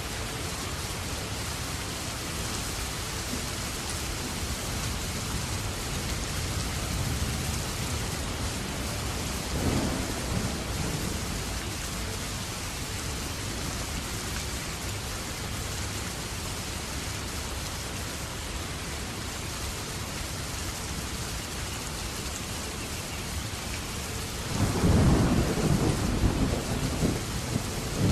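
Steady heavy rain falling, with a short roll of thunder about ten seconds in and a louder, longer rumble of thunder starting near the end.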